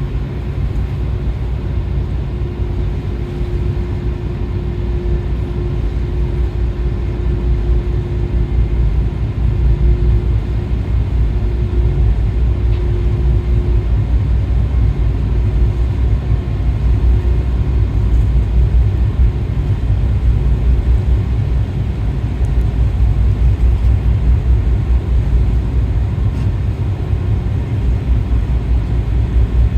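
Steady low rumble aboard the car ferry Orange Shikoku as she manoeuvres slowly toward the pier, mixed with gusting wind on the microphone. A faint steady hum runs through the first half, then fades.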